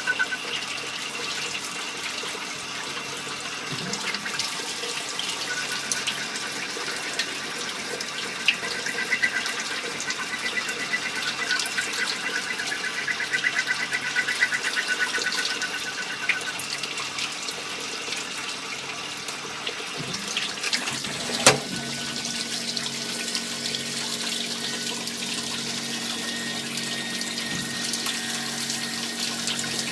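Multi-function automatic lathe cutting small-diameter parts, with a steady hiss of coolant oil splashing over the work. A fast, high chatter of the cut comes and goes in the first half, there is one sharp knock about 21 seconds in, and a low steady hum follows.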